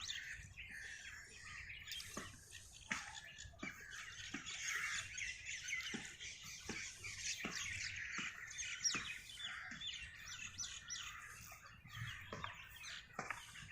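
Many small birds chirping and twittering at once, a dense chorus of short high calls.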